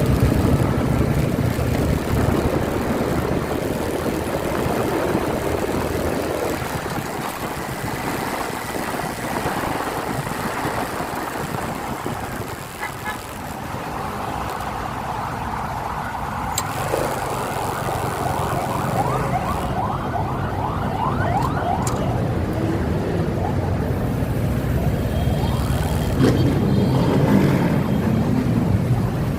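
Motorcycle riding on a highway: the engine runs steadily under wind and road noise, with traffic around it.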